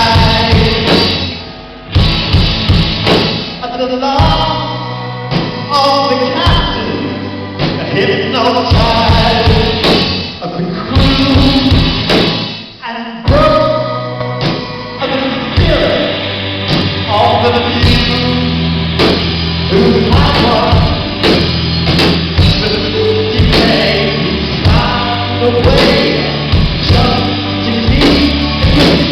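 A song with several voices singing together over a band with bass and drums.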